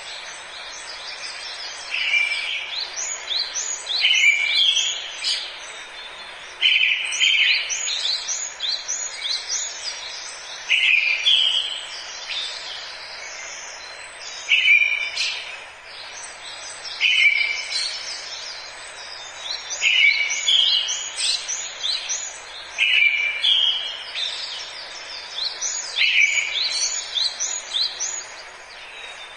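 Forest birdsong: one bird repeats a short song phrase every two to four seconds over a dense chorus of higher chirps from other birds, with a steady background hiss.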